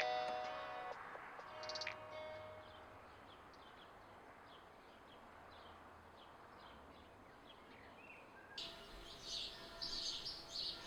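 Songbirds chirping outdoors. Faint scattered chirps over a low hiss give way, about eight and a half seconds in, to louder, busy birdsong, while the last notes of a guitar music track fade out in the first couple of seconds.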